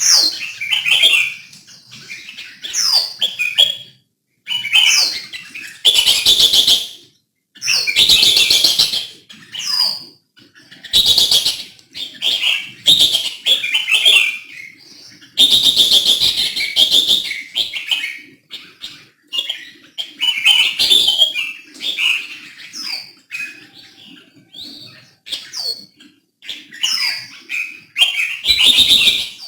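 Red-whiskered bulbul song: a run of short whistled phrases that fall in pitch, broken by several louder, harsher, rasping bursts.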